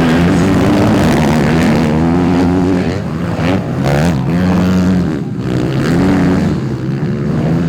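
Several 250cc motocross bikes racing, their engines revving up and easing off in turn, with overlapping pitches rising and falling.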